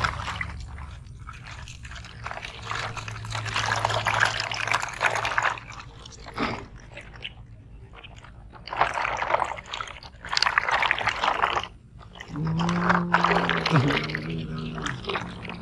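Sand being scraped, scooped and poured with toy construction vehicles, in several separate bursts. There is a short low tone near the end.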